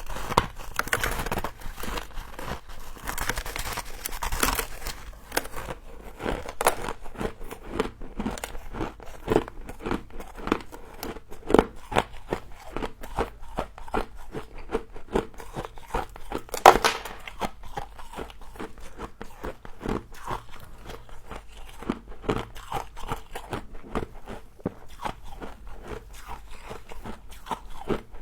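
Frost being bitten and chewed, a dense run of sharp crunches and crackles with the loudest crunch about seventeen seconds in.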